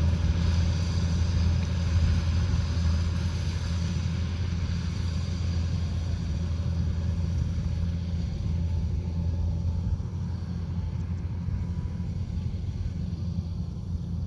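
Kubota DC-105X combine harvester's engine running steadily, a constant low drone. It becomes a little quieter about ten seconds in.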